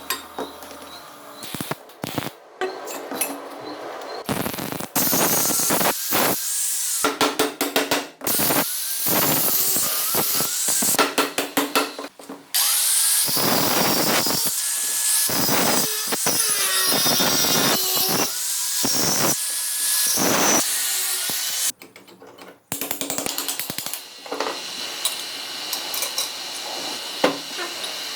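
Power tools working metal in a series of short edited clips: a tool spins up, runs and winds down several times, with stretches of loud cutting or grinding noise.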